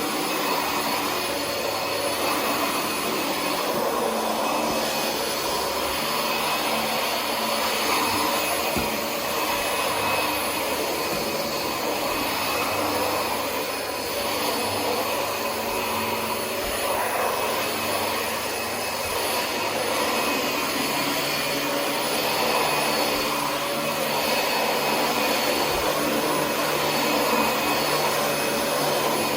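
Dyson DC25 upright ball vacuum cleaner running steadily, its motor whine swelling and easing a little as it is worked across the floor, with a few light ticks.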